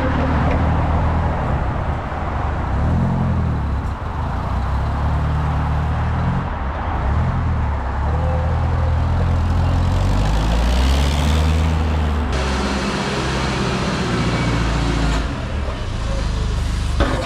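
A motor vehicle's engine running, its pitch rising and falling as the revs change, over a steady noise.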